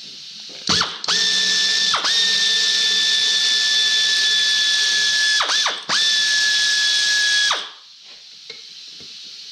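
Pneumatic air ratchet spinning out the engine's crankcase bolts: a steady high whine over air hiss, in three or four runs that each spin up quickly, with short breaks, stopping about three-quarters of the way through.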